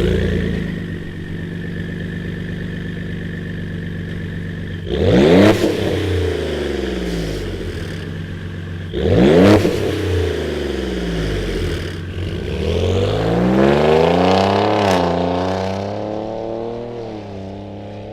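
2017 Ford Raptor's twin-turbo 3.5-litre EcoBoost V6 idling through a Borla aftermarket exhaust. It is blipped sharply twice, about five and nine seconds in, then revved more slowly to a peak near fourteen seconds and let fall back to idle.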